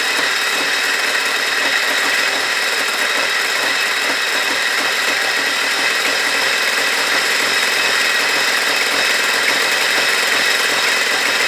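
1983 Ford Ranger engine idling steadily with its air cleaner removed, snow being raked into the open carburetor intake and sucked in. Its running sound is a steady hiss with a few fixed tones and no change in speed.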